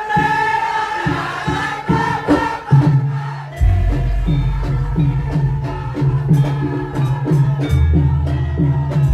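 Javanese gamelan accompaniment for a lengger dance: voices singing together at first, with scattered percussion strikes, then from about a third of the way in a steady beat of about two strokes a second over a deep sustained low tone.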